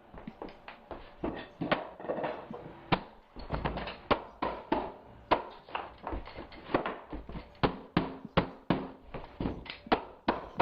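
Irregular series of sharp knocks and thuds, about two to three a second, from mallet blows and a pneumatic flooring stapler driving staples into hardwood floor boards.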